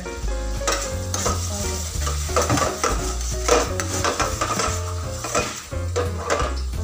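A slotted spatula stirring and scraping in a stainless steel pan of bubbling lemon-butter sauce, which sizzles. Background music plays underneath.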